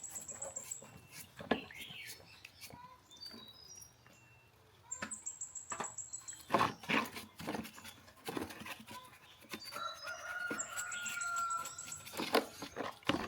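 Irregular clicks and knocks, with short high bird chirps scattered through and one drawn-out bird call about ten seconds in.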